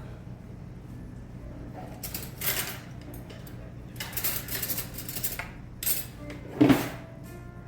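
Dishes and metal utensils clattering and scraping on a restaurant table in a few short bursts, the loudest near the end, over a steady low background hum.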